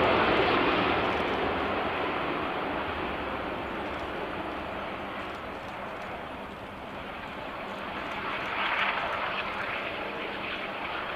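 Airbus A380 jet engines rumbling. The noise is loudest at first and eases off over the next several seconds, then swells again briefly about nine seconds in.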